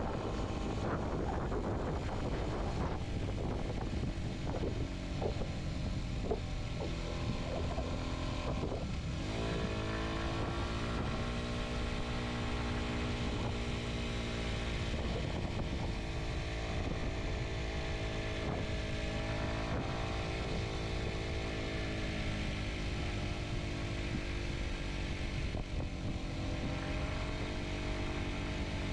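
Kawasaki Z125's single-cylinder four-stroke engine running under way. About nine seconds in, the engine note climbs, then holds fairly steady with small dips and rises as the throttle changes.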